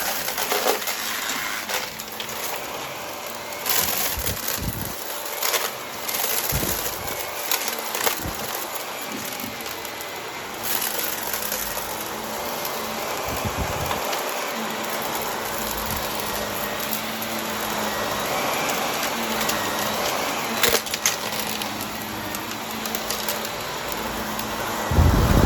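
Vacuum cleaner running with its brushroll crunching over debris: a steady motor hum and rushing air, broken by scattered sharp crackles and clicks as bits are picked up.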